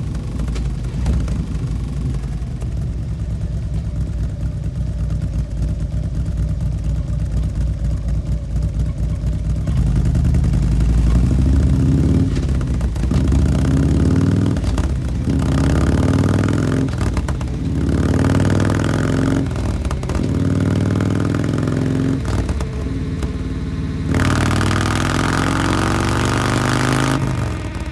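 2013 Harley-Davidson Road Glide's air-cooled V-twin running through an S&S Sidewinder 2-into-1 exhaust: it idles steadily for about ten seconds, then is revved in a series of short blips, and is held at higher revs for about three seconds near the end before dropping back.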